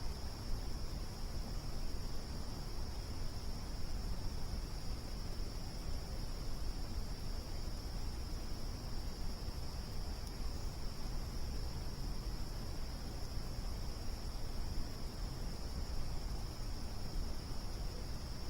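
Crickets chirring in a steady, unbroken high chorus over a low, even rumble from the campfire.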